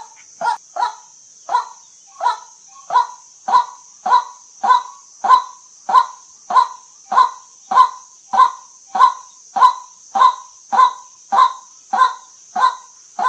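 White-breasted waterhen calling over and over, a short honking call about every two-thirds of a second in a steady rhythm, over a steady high hiss.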